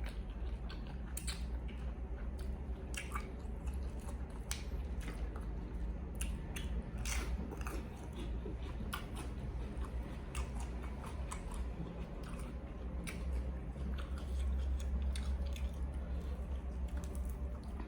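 A person chewing and biting food close to the microphone, with scattered small crunches and clicks, over a low steady hum.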